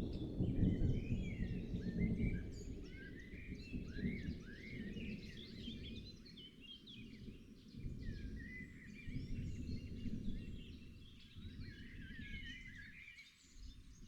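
Many songbirds chirping and singing over a low rumbling noise that is loudest at the start, fades, then swells again about two-thirds of the way through.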